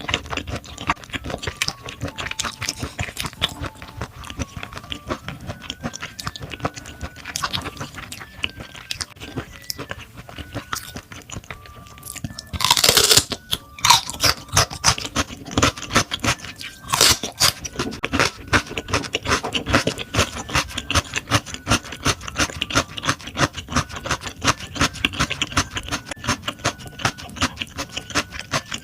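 Close-miked eating: chewing with many quick mouth clicks and smacks, with a louder crunching burst about thirteen seconds in and another near seventeen seconds. Soft background music plays faintly underneath.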